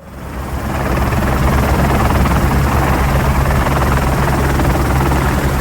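Helicopter in flight, heard from on board: a steady low rotor-and-engine drone under a loud, even rushing hiss. It rises in over the first second, then holds steady.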